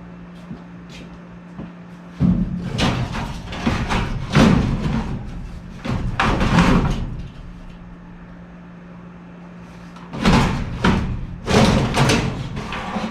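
Sheet metal scraping and clunking in two rough spells of several seconds each, as metal furnace and coil parts are pulled and shifted. A steady low hum runs beneath.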